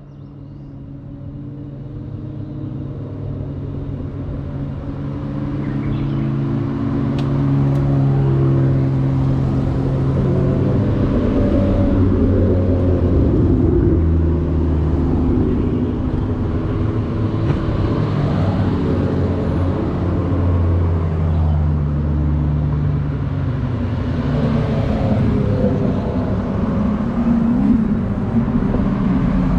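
Several sports car engines running at low revs together, a steady rumble with overlapping engine notes that grows louder over the first several seconds and then holds.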